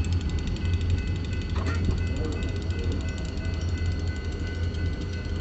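Diesel locomotive engine running steadily, a low rumble with a faint steady high whine over it. A faint voice is heard briefly about two seconds in.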